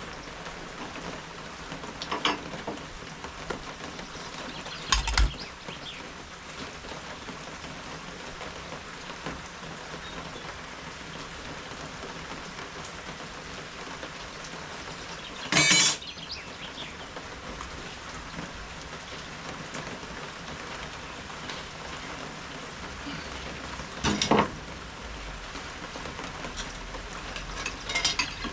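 Steady rain falling, heard as an even hiss. A few short, louder knocks stand out, about five in all, the loudest about halfway through.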